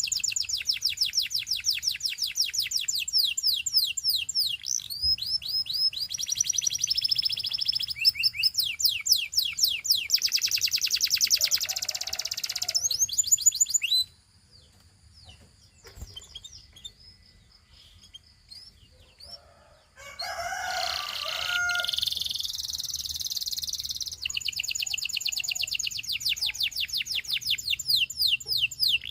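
Gloster canary singing long, fast trills of rapidly repeated high notes, with the phrases changing speed and pitch. The song breaks off for about six seconds near the middle, leaving only faint chirps, then starts again with a burst of a fuller, lower-pitched note and more rapid trills.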